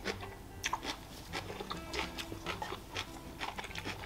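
Close-miked chewing of a mouthful of vegetable salad: soft, irregular wet smacks and clicks of the mouth, several a second.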